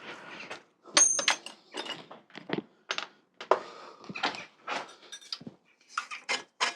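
Irregular metal clicks and clinks from a threaded 1-inch bicycle headset being taken apart by hand, with one brief ringing clink about a second in.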